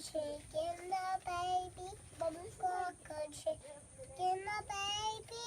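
A young child singing a tune in a high voice, holding notes and gliding between them.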